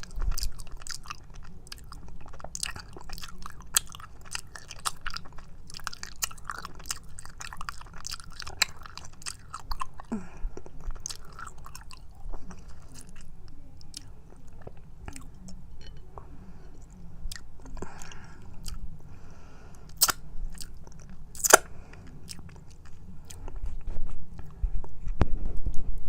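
Close-miked chewing of raw honeycomb: sticky, wet smacking and clicking as the wax comb and honey are bitten and chewed, with a few louder sharp clicks later on.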